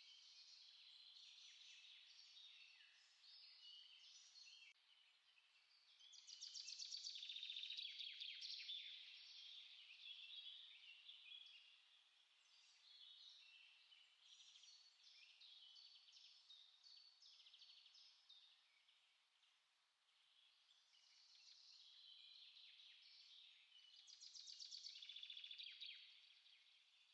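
A chorus of small songbirds singing, faint, with many overlapping high chirps and two louder rapid trills, one about six seconds in and one near the end.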